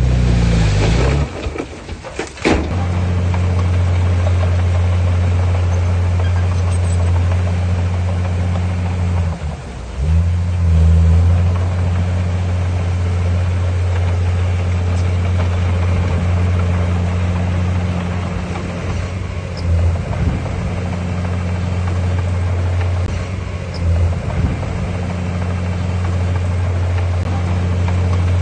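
Heavy diesel engine of earthmoving machinery running steadily at a low pitch, easing briefly about ten seconds in. The first couple of seconds hold a rush of noise ending in a sharp clatter.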